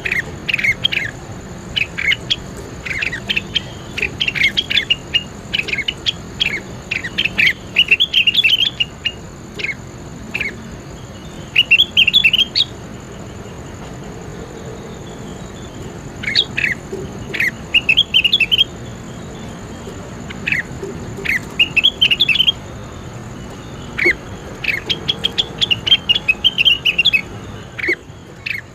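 Songbird singing in short phrases of sharp, squawky chirps, each about a second long, separated by pauses. A faint steady high-pitched whine runs beneath.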